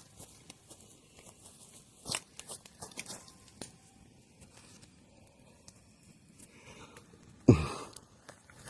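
Wood bonfire crackling, with scattered sharp pops. A loud thump with a short rustle comes near the end.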